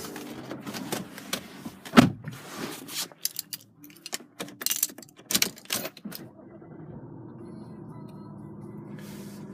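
A run of clicks and knocks from handling the fittings inside a car, with one heavy thump about two seconds in. From about six seconds a steady low hum takes over.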